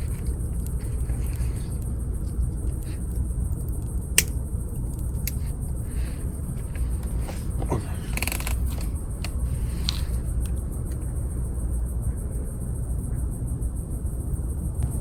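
Wood campfire crackling, with scattered sharp pops and one loud crack about four seconds in, over a steady low rumble.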